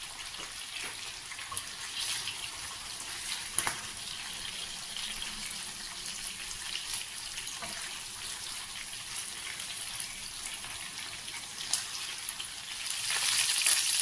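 Chicken drumsticks shallow-frying in hot oil in a pan: a steady sizzle with scattered crackles and pops, growing louder near the end.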